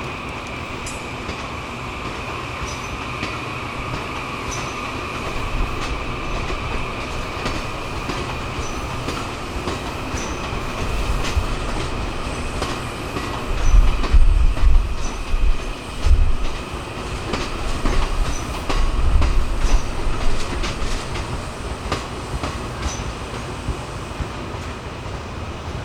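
Train rolling along the track, with scattered sharp clicks from wheels over rail joints and a steady high whine throughout. Heavy low rumbling swells and fluctuates from about halfway in.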